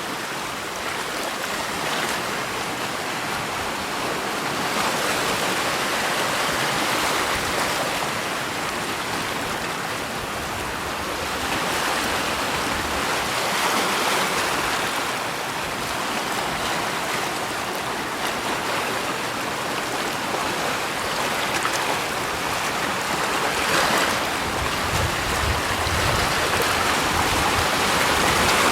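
Waves washing in: a steady rush of water that swells and eases every few seconds.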